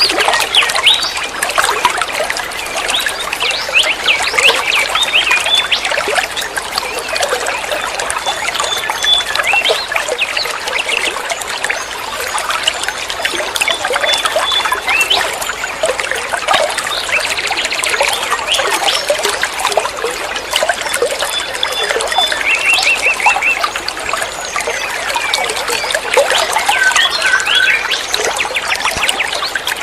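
Running water trickling and splashing, with birds chirping and calling over it throughout; a short rapid trill stands out about three-quarters of the way through.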